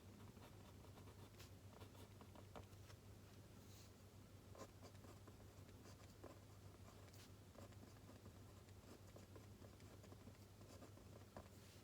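Faint writing on paper: light, irregular scratches and taps from a pen moving across the page, over a steady low hum.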